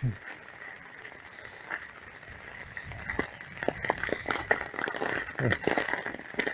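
Heavy rain falling, with close raindrops ticking sharply, the ticks growing thicker and louder about three seconds in. A short, low, falling sound comes at the start and again about five seconds in.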